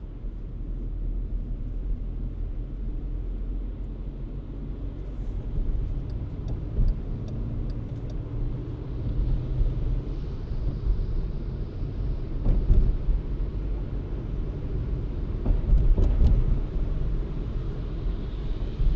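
Car driving on snowy city streets: steady low rumble of engine and tyres on the road. A short run of faint ticks comes about six to eight seconds in, and the rumble swells with bumps twice near the middle and end.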